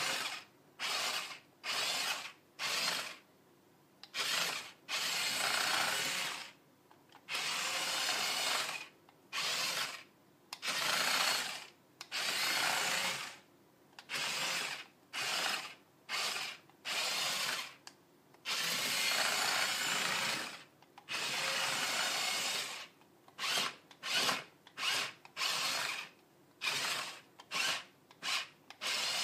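Fisher-Price remote control dump truck's small electric motor and plastic gears whirring in repeated bursts, starting and stopping as the remote's buttons are pressed. Some bursts last about two seconds, while near the end come a run of short quick ones.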